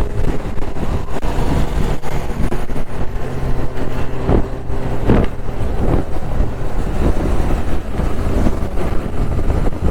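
Motorcycle riding at speed: heavy wind rumble on the microphone over a steady engine tone.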